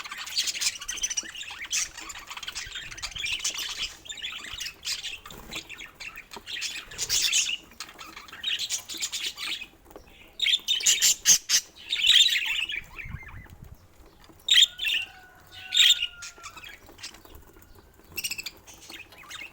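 Budgerigar chattering with high warbles and chirps, broken by several louder, sharper calls in the second half.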